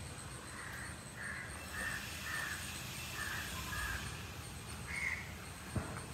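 A bird calling repeatedly: about seven short calls spaced over four seconds. A single sharp click comes near the end.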